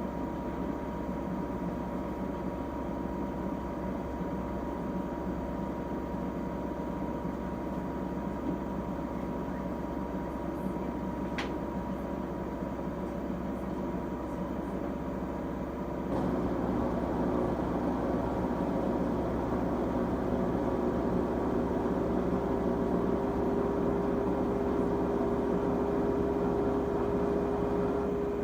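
LG Tromm WD-CR101C front-loading washing machine, 13 years old, running late in its quick-wash cycle: a steady hum that steps up louder about halfway through, after which a tone climbs slowly as the drum speeds up.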